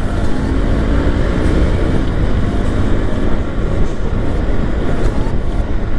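Honda Activa scooter on the move: steady wind and road rumble over the mic, with the scooter's engine running underneath.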